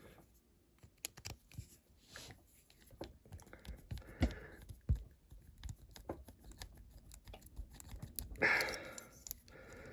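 Small irregular clicks and scrapes of a hand tool prying at a diecast model car, working a small plastic light out of the metal casting, with a longer scrape near the end.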